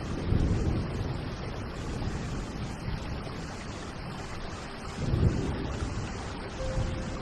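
Low rolling thunder over a steady hiss of rain. The rumble swells about half a second in and again about five seconds in. Faint music notes come in near the end.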